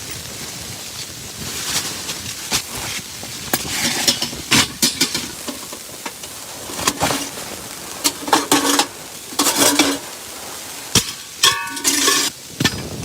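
Irregular knocks, clatters and scraping from objects being handled, with a short metallic ring about twelve seconds in.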